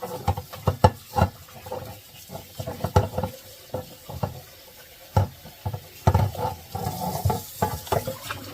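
Freshly churned butter being washed in cold water in a bowl: water sloshing and pouring off, with many irregular knocks and clicks against the bowl.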